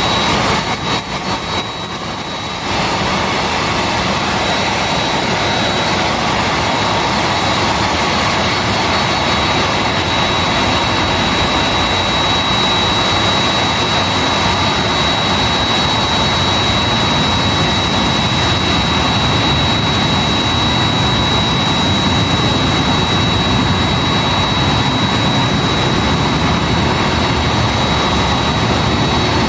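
Boeing 787-8's Rolls-Royce Trent 1000 turbofan engines running steadily at ground idle, a broad rushing noise with a constant high whine. The sound dips briefly about a second in, then holds level.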